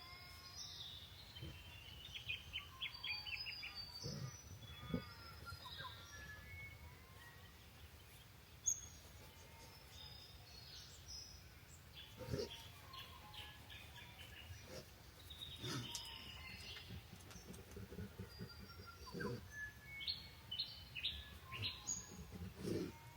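Several birds chirping and trilling in short, repeated calls over a faint outdoor background, with a few soft low knocks and one sharp click about nine seconds in.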